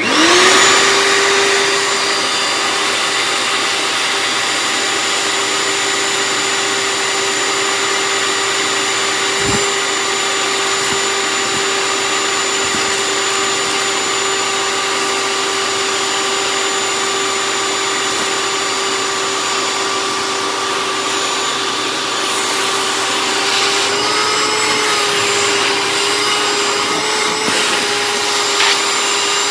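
Small shop vac switched on, spinning up at once to a steady, loud, high motor whine. About two-thirds of the way through, the pitch rises a little and wavers while it sucks up debris, with a few faint knocks.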